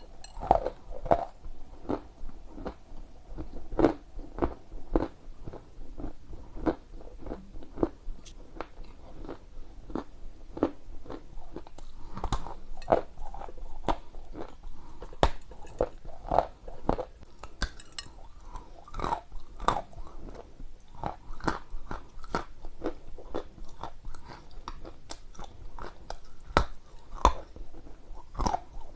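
Close-miked chewing of lumps of dry edible clay (Ural clay): irregular sharp crunches, a few each second, as the pieces are bitten and ground between the teeth.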